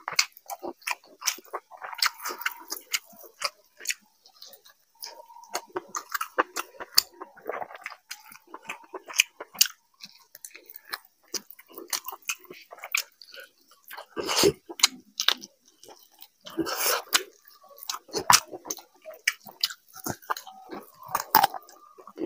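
Close-miked chewing of rice and chicken eaten by hand, with many short, irregular mouth clicks.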